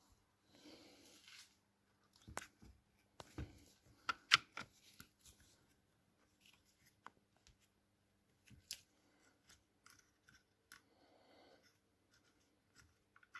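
Scattered light clicks and knocks of small metal parts and hand tools being handled on a workbench while a throttle-body injection unit is worked on. The sharpest click comes a few seconds in.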